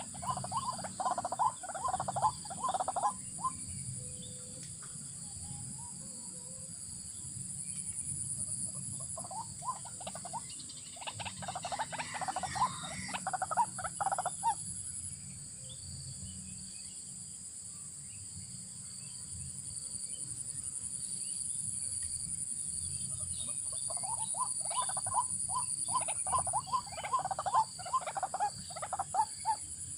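White-breasted waterhens calling in three bouts of rapid repeated notes, over a steady high drone of insects.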